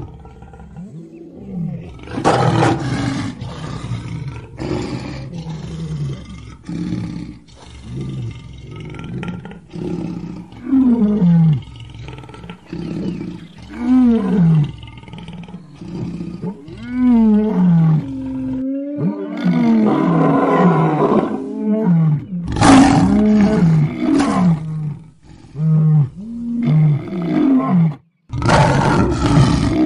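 Lion roaring again and again: a run of loud, deep roars and grunts, many of them falling in pitch, broken twice by sudden cuts where separate recordings are spliced together.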